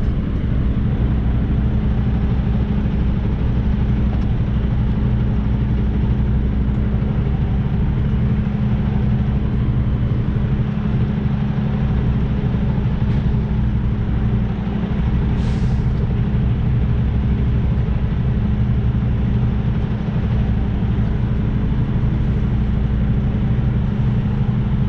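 Semi truck's diesel engine running steadily at low revs during a slow reversing manoeuvre, heard from the cab. A short hiss sounds about fifteen seconds in.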